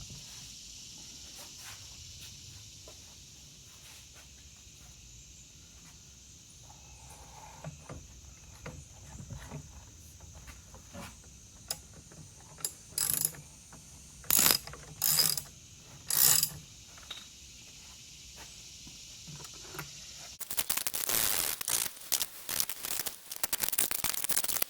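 Hand ratchet clicking as it turns the screw of a strut coil-spring compressor: scattered clicks, four short bursts of ratcheting around the middle, then fast continuous ratcheting near the end.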